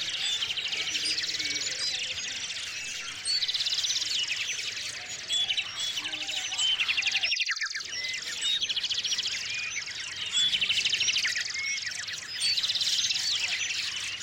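A chorus of small songbirds chirping, overlapping one another, with rapid high trills breaking in every few seconds.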